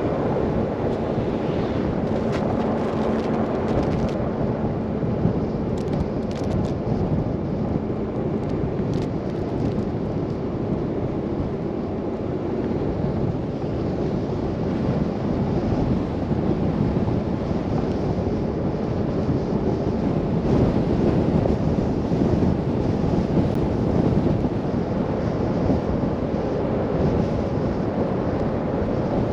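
Steady rushing wind and road noise of a car driving through a snow blizzard, a dense, even rumble with a faint steady hum for the first several seconds.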